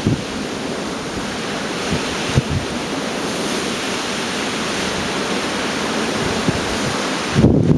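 Gale-force storm wind rushing steadily, with low buffets of wind on the microphone near the end.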